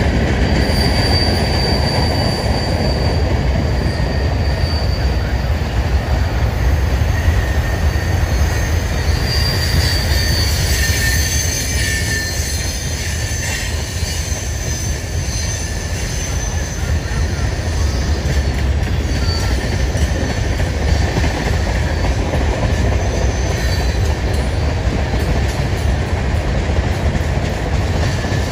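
Freight train cars rolling past on a curve: a steady low rumble of wheels on rail. Thin high squeals from the wheels on the curve come and go, strongest near the start and about a third of the way through.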